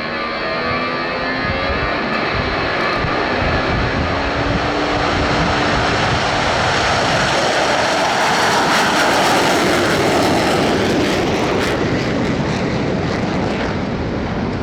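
Four Blue Angels F/A-18 Super Hornets taking off in formation in afterburner: a loud, steady jet roar that swells to its peak about nine seconds in as the jets pass, then eases a little as they climb away.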